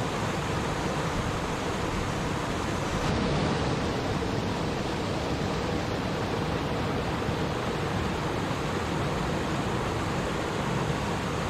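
Water of a flowing stream rushing and babbling steadily.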